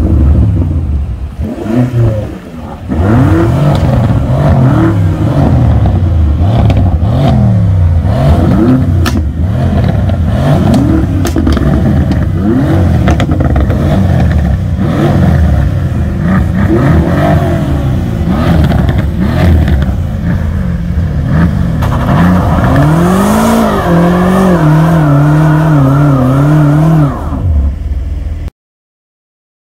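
Twin-turbo V8 engines of a BMW M5 (F90) and a Mercedes-AMG C63 (W205) revved again and again in quick blips, with exhaust pops and crackles among them. Near the end, one engine climbs and is held at steady high revs for a few seconds.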